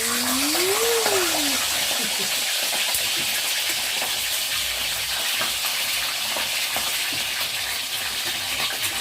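Chicken pieces frying in hot cooking oil in a kawali, a loud steady sizzle.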